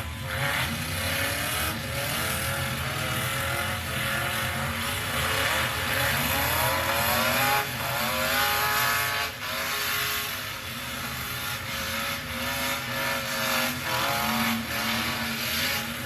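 Several demolition derby trucks' engines revving, their pitches rising and falling over one another, with a few sharp knocks from hits, about two seconds in, at nine seconds and near the end.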